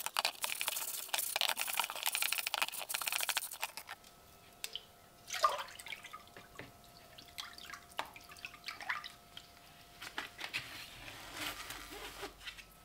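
Brisk scrubbing or scraping for about four seconds, then water dripping in scattered single drops and small splashes, one with a falling plop about five seconds in.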